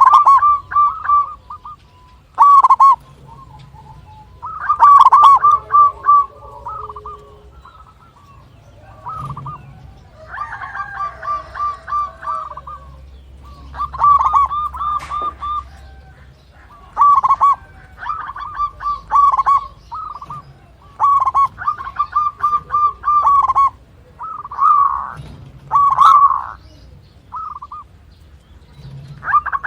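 Zebra dove (perkutut) cooing in rapid staccato phrases, each a quick run of short notes about a second long, repeated every two to three seconds.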